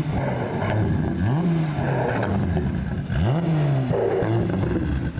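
A car engine being revved in the street, blipped repeatedly, its pitch climbing and dropping back with each rev about every two seconds.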